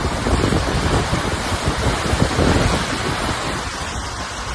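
Storm wind and heavy rain: a steady hiss with irregular gusts buffeting the microphone, easing slightly in the second half.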